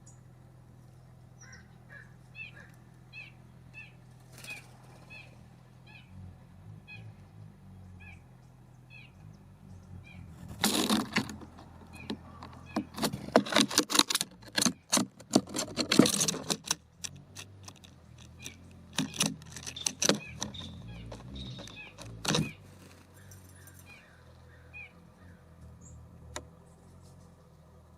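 Small songbird giving short high chirps over and over, about two a second, at a backyard bird feeder. About ten seconds in come loud bursts of sharp tapping and clattering, and a shorter bout near twenty seconds: birds landing, pecking and scrabbling at the feeder and its wooden perch.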